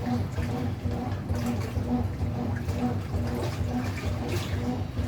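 Brastemp BWT09A top-loading washing machine running its super rinse: the motor hums in a pulse of about three times a second while the water churns in the tub.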